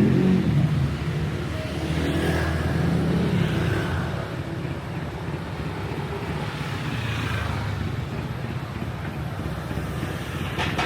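Street traffic: motor vehicles running and passing close by, the engine sound swelling and fading a few times, with a short click near the end.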